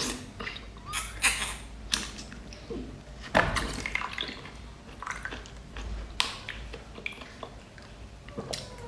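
Wet slurping and sucking as a cat's eye (turban) snail is sucked from its shell, with scattered smacks and clicks, the loudest about three and a half seconds in.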